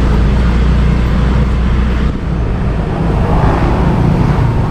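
Motorbike riding through city traffic: a steady, loud low rumble of engine and road noise picked up by the action camera on the bike. The deepest part of the rumble changes and turns choppier about two seconds in.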